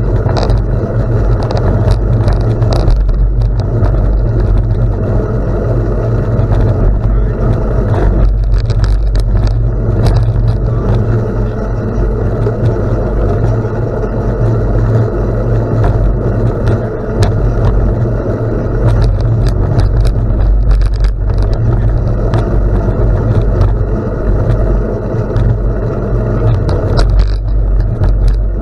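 Steady, loud wind rumble on the microphone while riding a bicycle on a gravel road, with tyre noise and scattered ticks and crunches from the gravel.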